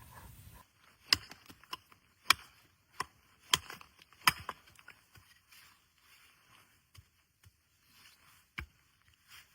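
Wood being chopped: a run of five sharp blows roughly a second apart, then a few fainter knocks and one more firm blow near the end.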